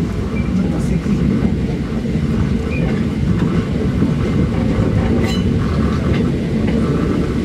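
Hakone Tozan Railway electric train running, heard from inside the carriage: a steady low rumble of wheels on rail and running gear, with a few light clicks from the track.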